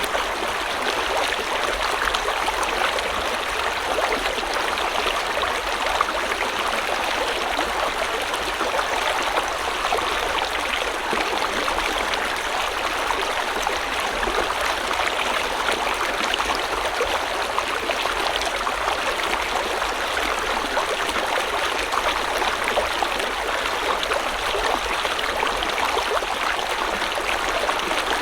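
River water flowing steadily over rocks, an even rushing and gurgling without a break.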